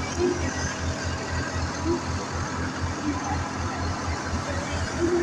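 Tractor diesel engine running steadily with an even, fast, low throb.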